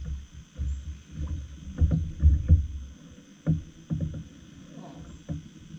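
River water slapping and sloshing against a small boat's hull in irregular low thumps, with a few light knocks.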